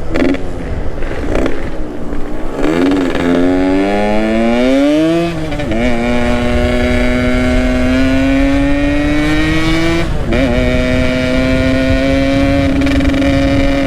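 Yamaha RX-King 135 cc two-stroke motorcycle accelerating through the gears. The engine pitch climbs, drops at a gear change about five seconds in, climbs again more slowly, and drops at another shift about ten seconds in before holding nearly steady. Wind rushes under it.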